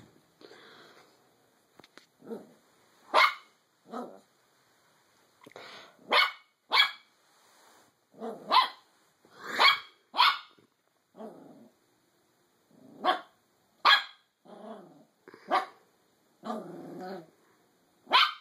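Small black curly-coated dog barking: about ten sharp barks at irregular intervals, with low growls between them.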